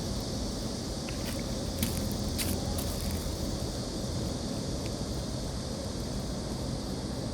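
Steady outdoor background noise: a low rumble under a high hiss, with a few faint clicks between about one and three seconds in.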